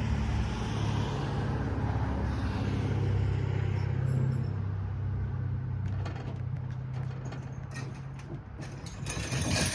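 A vehicle engine running steadily with a low hum, fading out about eight seconds in, followed by scattered clicks and rattles.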